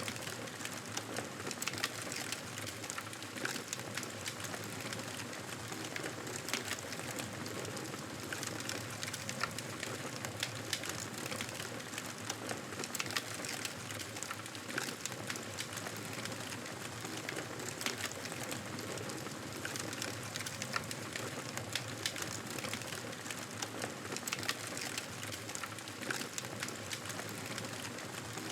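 Wood fire crackling steadily: a constant hiss with many small sharp pops and snaps scattered throughout.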